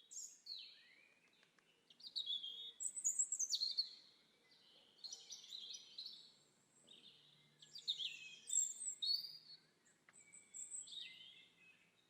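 Birdsong: high, quick warbling phrases repeating every couple of seconds with short pauses between.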